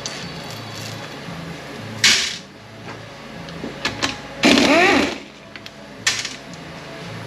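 Power tool running in short bursts while unbolting a transmission: a brief burst about two seconds in, then a longer run midway whose pitch sweeps up and down. Sharp metal clicks of parts and fasteners sound over a low steady shop hum.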